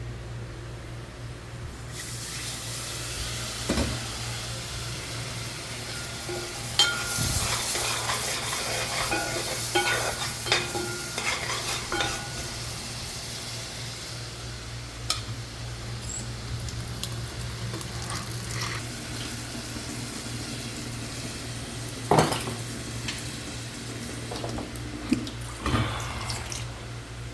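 Food sizzling as it fries in a pan, with a utensil stirring and knocking against the pan. The sizzle starts about two seconds in; a run of clinks and scrapes comes in the middle, and a few sharp knocks near the end.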